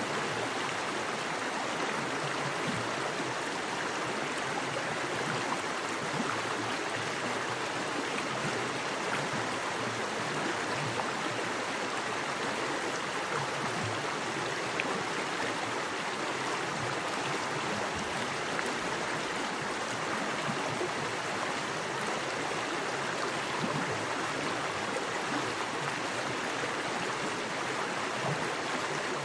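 Small woodland creek with fast water rushing and splashing over rocks: a steady, even rush of water without pauses.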